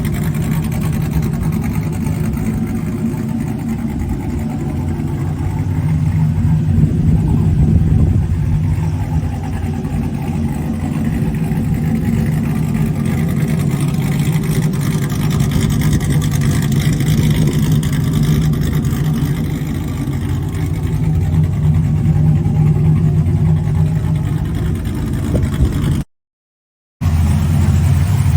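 1979 Chevrolet C10 pickup's engine running, its pitch swelling and easing gently. It cuts out briefly near the end, then resumes at a lower, steadier pitch.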